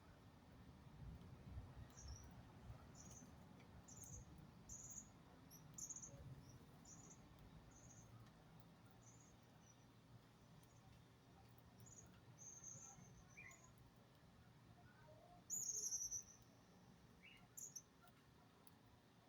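Small birds giving faint, short, high chirps, about one a second, with a louder, longer chirp near the end.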